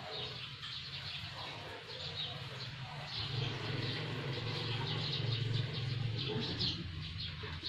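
Small birds chirping in the background, many short high chirps, over a steady low hum that grows louder about three seconds in.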